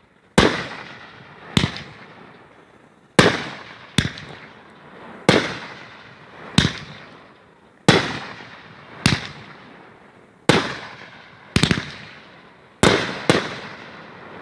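A 500 gram consumer fireworks cake firing, about a dozen sharp bangs roughly a second apart, a few in quick pairs, each trailing off before the next.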